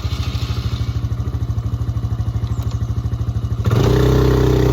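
Polaris quad bike engine opened to full throttle as it strains to drive forward while beached on a tree and stuck. It comes in suddenly with a fast, even pulsing beat and grows louder about three and a half seconds in.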